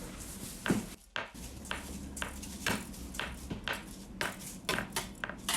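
Irregular light clicks and clinks, a few every second, some with a short ring, pausing briefly about a second in.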